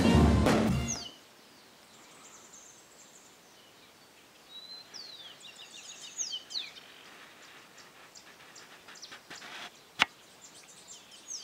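Music with drums fades out in the first second, leaving quiet open-air ambience with birds chirping in short, high, falling notes. There is a single sharp click about ten seconds in.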